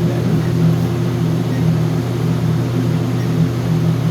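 Steady low machine hum with a few constant low tones and no change in level.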